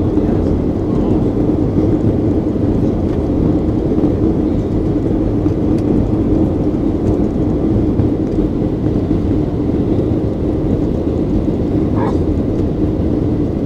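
Steady, unchanging noise of a Boeing 737-800 jet airliner in flight, its engines and airflow giving a loud, low-pitched noise.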